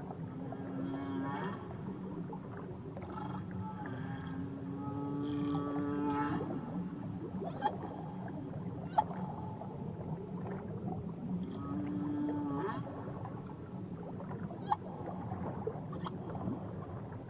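Whale calls under water: several phrases of long held tones with gliding upper notes, over a steady underwater hiss. A few short sharp clicks fall between the phrases.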